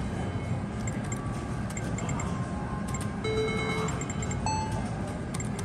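Casino floor ambience from electronic gaming machines: short electronic tones and high beeps repeating over a steady background din, with a few sharp clicks.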